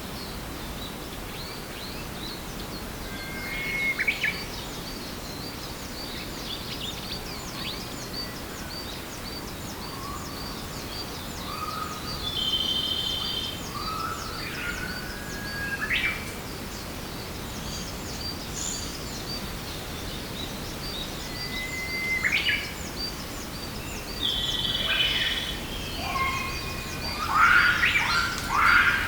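Forest birds calling: scattered whistled and rising notes, a cluster of louder calls near the end, over a steady, rapid high ticking and a soft background hiss.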